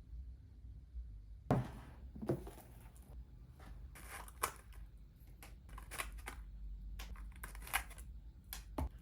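Irregular clicks and rustles of small objects being handled by hand, starting about one and a half seconds in.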